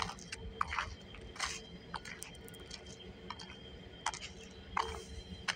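Double-stack container freight train rolling slowly past: a low steady rumble with scattered, irregular clicks and knocks from the cars.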